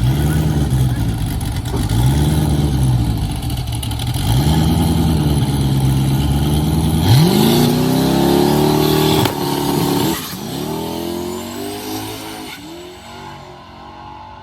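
LS V8 drag car engine revving up and down in regular swells about every two seconds, then launching at full throttle about seven seconds in, the pitch climbing sharply, dropping and climbing again at two quick upshifts, and fading as the car pulls away down the strip.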